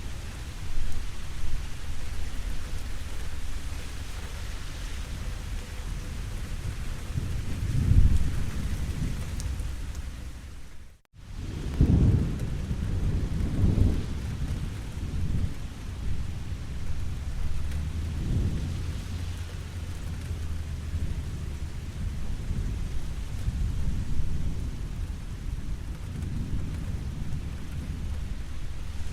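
Steady rain falling, with rolls of thunder rumbling low several times, loudest about a third of the way in and just after a brief sudden cut-out of all sound near the middle.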